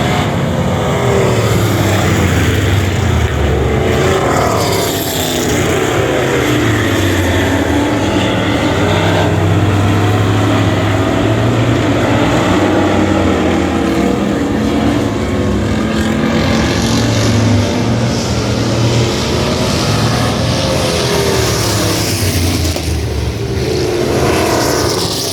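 Vintage stock car engines running at racing speed, loud and continuous, with the pitch sweeping up and down as cars go by.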